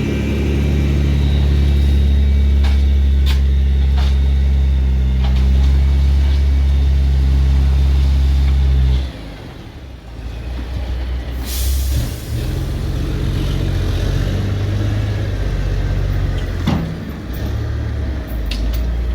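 Heavy delivery truck's engine running steadily and loud, then dropping away about nine seconds in. A short hiss of air follows a couple of seconds later, and then the engine runs again more quietly, its pitch shifting as it manoeuvres.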